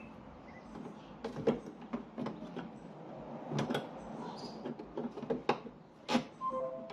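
Irregular clicks and knocks of hand tools and metal parts being worked on a car's rear suspension while a collapsed shock mounting is worked loose, with a brief squeak near the end.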